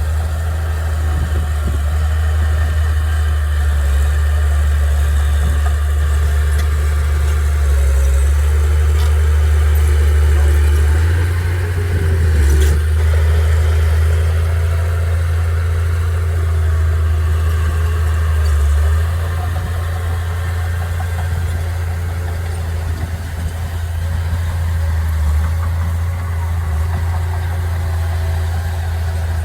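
Diesel engine of a bulldozer or truck running steadily at low revs, with a brief change in its note about halfway through.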